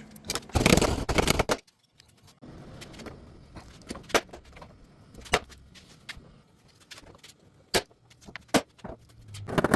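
Paintless dent repair glue pulling on a car's sheet-metal hatch: a loud rough scuffing noise in the first second and a half, then several sharp single snaps about a second apart as glue-pull tabs let go of the panel.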